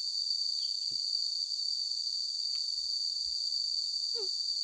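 A steady, high-pitched insect chorus: a continuous shrill drone without a break. A faint, short squeak sounds about four seconds in.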